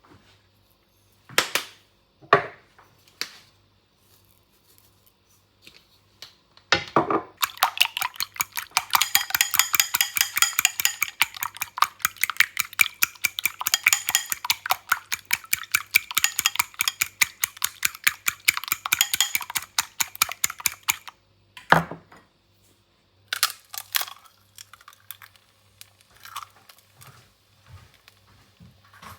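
A few separate clinks and knocks of kitchenware, then, from about seven seconds in, a metal utensil beats rapidly and evenly against a bowl for about thirteen seconds. The strikes come several times a second, each with a light ringing tone. A few more knocks follow near the end.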